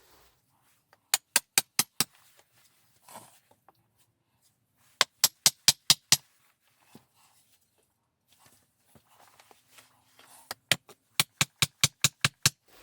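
Hammer strikes in three quick runs of sharp blows, about four to five a second, with a slight metallic ring: driving nails into wood.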